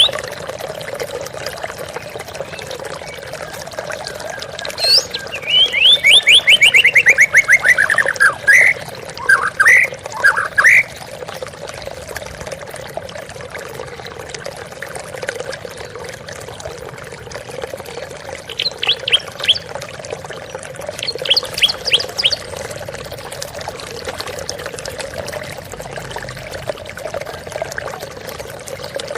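Steady rushing of a waterfall, over which a white-rumped shama sings two bouts of rapid trills and whistled phrases, one a few seconds in with a long falling trill and another past the middle.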